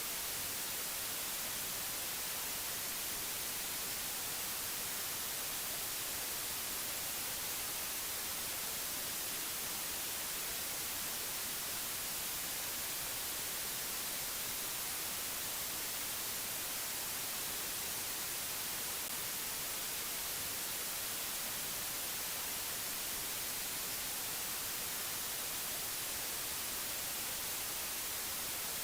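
Steady, unchanging hiss of white noise, brightest in the treble, with no tones or rhythm in it.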